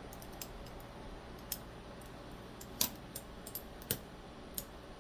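Small metal parts of a folding knife clicking and tapping as it is handled and put back together: a handful of short, irregular clicks, the loudest about three and four seconds in.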